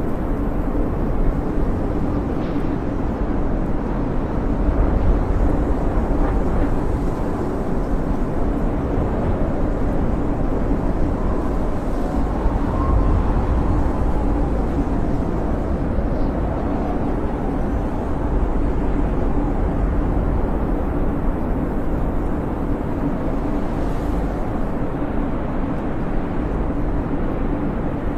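Blizzard wind howling steadily, a deep rumble with faint whistling tones that waver in pitch.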